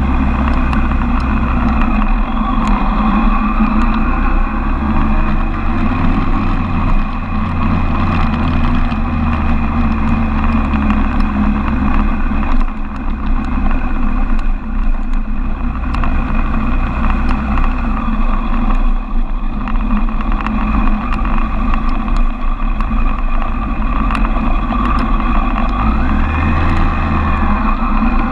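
Suzuki Bandit 1200's inline-four engine running at low speed as the motorcycle rides slowly through town, heard from on board, with a brief rise and fall in engine note near the end.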